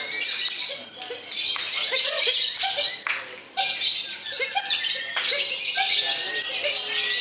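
Lovebirds ngekek at a singing contest: long, shrill, rapid chattering trills from several birds together, with brief breaks a little over a second in, at about three seconds and at about five seconds.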